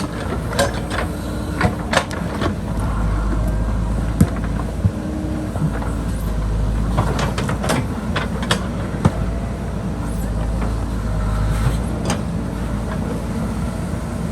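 JCB backhoe loader's diesel engine running steadily under load while it digs. Repeated sharp knocks and clatters of the bucket against rock and stone are heard throughout.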